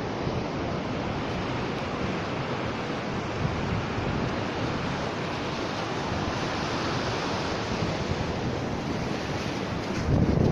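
Sea surf washing steadily onto the shore, with wind rumbling on the microphone near the end.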